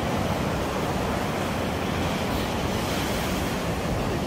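Surf washing onto a sandy beach with wind buffeting the microphone: a steady, even rush of noise.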